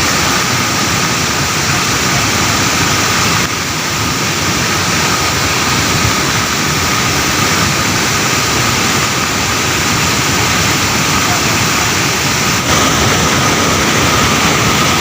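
Loud, steady road noise of vehicles and engines, with indistinct voices mixed in. The sound changes abruptly twice: about three and a half seconds in, and again near the end.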